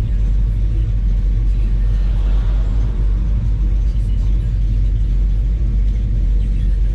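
Chevy C10 square-body pickup's engine running with a steady low rumble.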